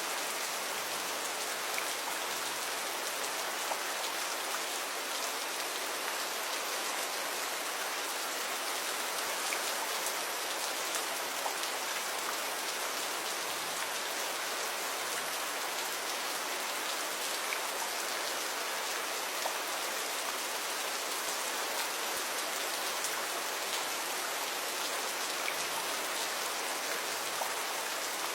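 Steady gentle rain falling, an even hiss with scattered ticks of individual drops.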